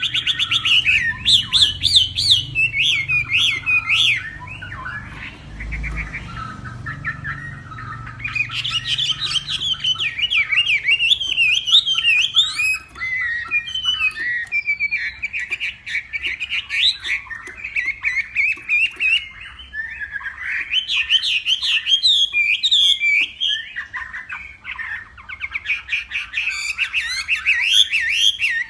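Chinese hwamei singing a long run of fast, varied, warbling phrases that sweep up and down in pitch, with a softer lull a few seconds in before the song picks up again.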